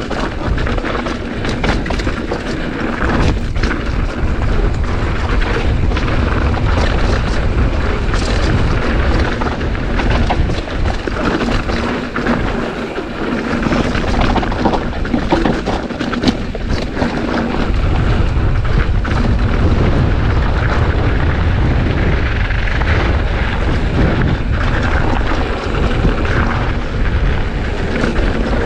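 Strong wind buffeting a GoPro's microphone during a mountain bike ride, a heavy low rumble that rises and falls, with scattered sharp clicks and rattles from the bike on the trail.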